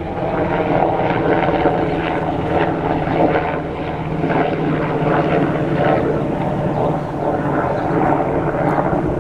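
Helicopter flying by: a loud, steady drone of its engine and rotor.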